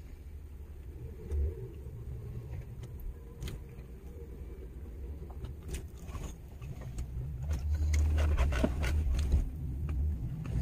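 Truck running, heard from inside the cab: a low rumble that grows louder about three-quarters of the way through, with scattered small clicks and rattles.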